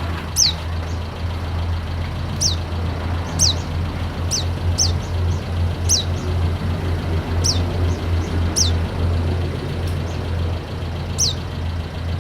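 Pleci (white-eye, Zosterops) giving short, thin, high chirps that drop in pitch, about ten spread irregularly through, as a lure call meant to stir sluggish birds into singing. A steady low hum runs underneath.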